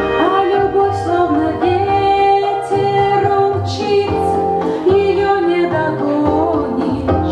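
A woman singing a song over instrumental accompaniment with sustained bass notes.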